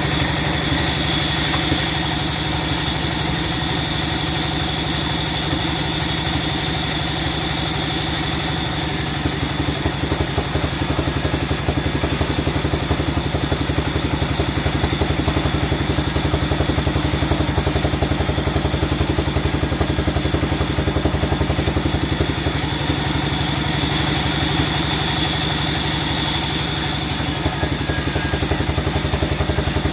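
Sawmill engine running steadily at an even speed, with a fast, regular pulsing.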